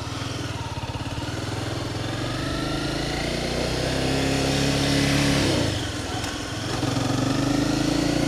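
Honda CBR300R's single-cylinder engine pulling under acceleration, its pitch climbing steadily. About six seconds in it drops for a gear change, then climbs again. There is wind noise on the microphone.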